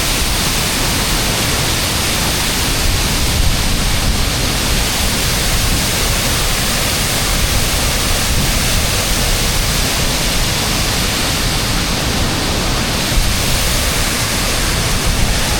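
The Jagala River waterfall close by: a loud, steady rush of falling water.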